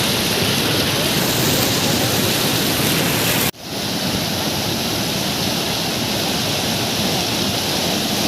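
Waterfall water rushing with a loud, steady roar, broken by a brief dropout about three and a half seconds in.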